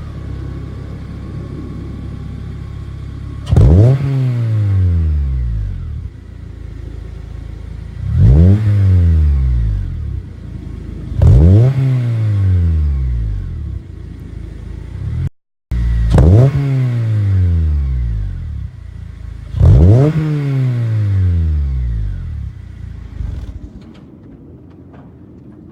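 Honda Civic Si four-cylinder engine through a full 3-inch straight race exhaust, idling and blipped five times, each rev climbing quickly and falling back to idle. The exhaust is loud and raspy on each rev.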